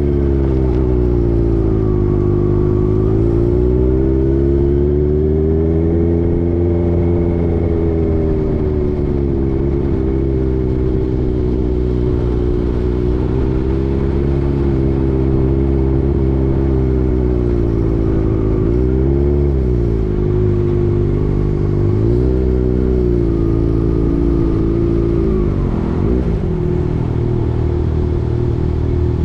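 Motorcycle engine running while riding, its pitch rising and falling gently with the throttle. A little past halfway it dips sharply and recovers twice in quick succession.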